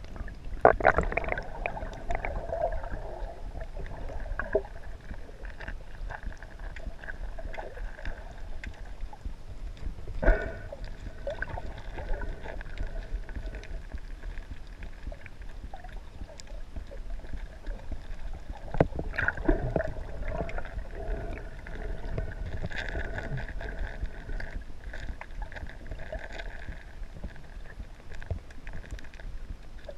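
Sea waves washing in on the shore, a swell rising about every nine seconds over a steady low rumble of surf.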